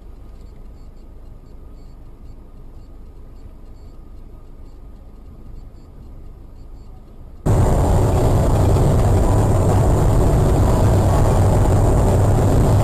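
Vehicle driving noise as picked up by a dashcam: a low, fairly quiet rumble, then about seven seconds in a sudden jump to much louder, steady road and engine noise.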